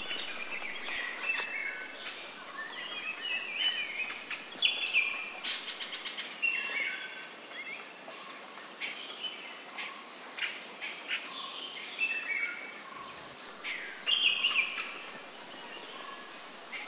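Songbirds chirping and calling outdoors, a steady run of short, high calls, many falling in pitch, with a few sharp clicks among them.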